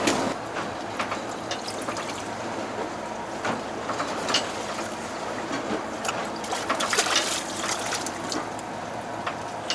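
Water trickling and splashing, with scattered light knocks and clicks.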